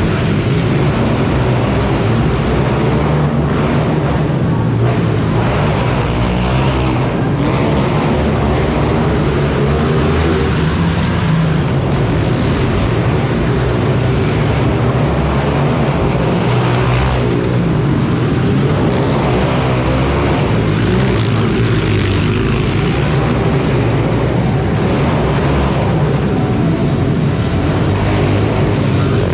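Mini dirt bike engines running and revving continuously, their pitch rising and falling as the bikes race around the track.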